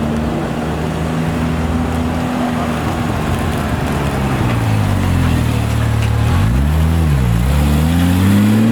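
Car engine running, its pitch sagging, then swinging down and back up about seven seconds in, and rising near the end.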